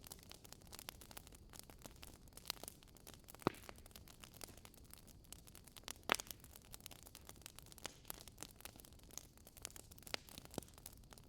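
Wood fire crackling, with a steady run of small ticks and a couple of louder pops about three and a half and six seconds in.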